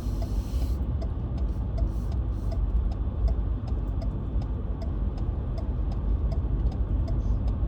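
Road and engine noise inside a moving car, with a turn-signal indicator ticking steadily, about two clicks a second.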